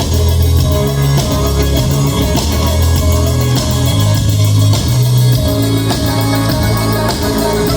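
Live rock band playing loud, with electric guitar, bass and drum kit, recorded from the audience at close range.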